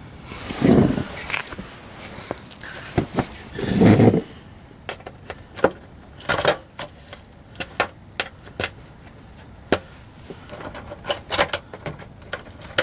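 Handling noise from a cover being worked back into place by hand: scattered clicks and taps, with two louder dull bumps about a second in and about four seconds in.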